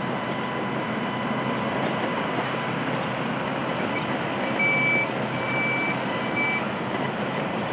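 Construction vehicle's backup alarm beeping three or four times at one high pitch from about four seconds in, over a steady rumble of heavy vehicles.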